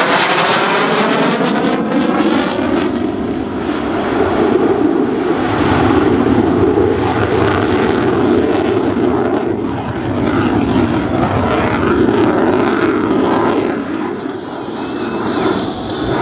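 F-16C fighter jet's turbofan engine running loud with a rushing roar as the jet flies its display. It has a sweeping, phasing change in tone during the first couple of seconds as it passes, then a steady rumble that swells and eases.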